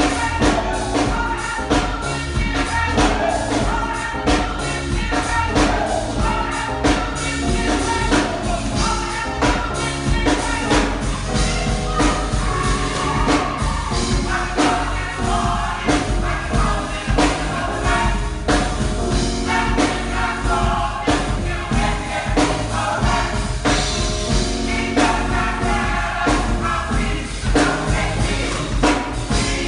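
Gospel choir singing a song with instrumental accompaniment and a steady percussion beat.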